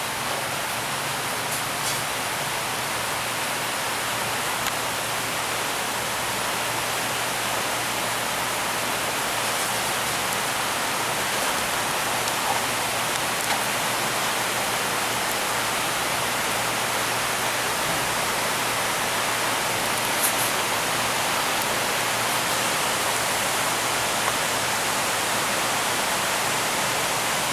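Steady rain falling, an even hiss with no let-up, with a couple of faint drop ticks.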